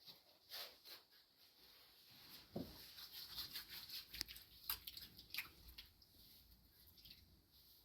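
Near silence in a small room, with faint scattered drips and small splashes of water.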